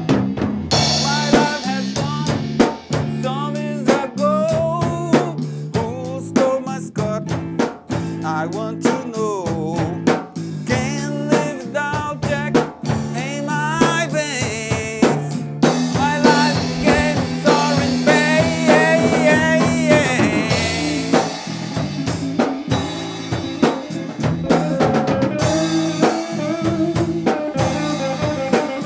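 Live blues-rock band playing an instrumental passage: drum kit with snare and bass drum keeping the beat, a steady bass line, and a lead melody of bending, wavering notes.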